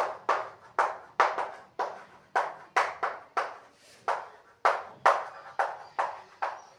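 A series of sharp taps or knocks, about fifteen at an uneven pace of roughly two a second, each dying away quickly.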